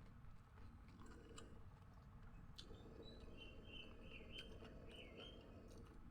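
Near silence with faint chewing and small clicks of someone eating. About two and a half seconds in, a faint high wavering call runs for about three seconds.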